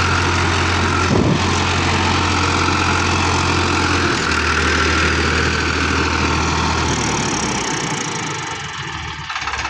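Farmtrac 60 EPI tractor engine running steadily at full throttle under load, driving a 9-foot Landforce super seeder, with no drop in RPM. The sound fades a little near the end, then changes abruptly.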